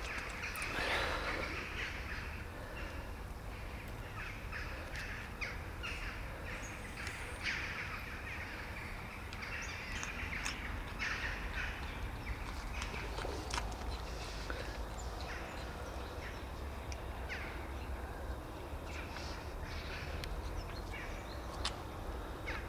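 Cats eating food, with many short crunching clicks, against harsh bird calls and a steady low outdoor rumble.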